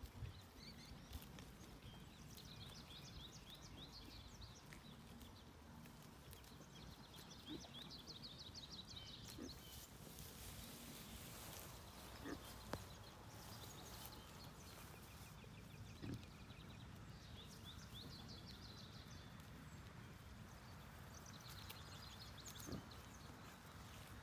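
Faint outdoor ambience: a low wind rumble with repeated high-pitched chirping trills, each lasting a second or two, and a few soft clicks.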